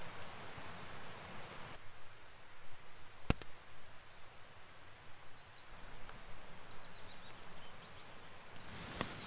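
Outdoor ambience: a steady rushing noise that drops away abruptly a couple of seconds in, leaving quieter air with faint high bird chirps and a single sharp click about three seconds in.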